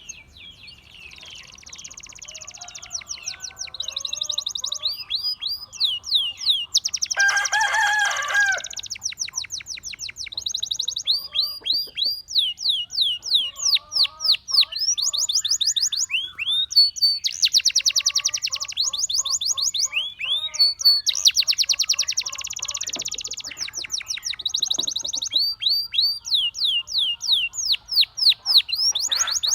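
Gloster canary singing: fast trills of repeated high, downward-sweeping notes in rolls broken by short pauses, with a louder, lower-pitched phrase about seven to nine seconds in.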